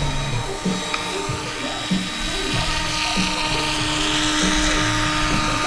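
Roban EC 665 Tiger RC scale helicopter in flight: a steady high whine of its motor and rotors that grows a little louder about halfway through, with background music.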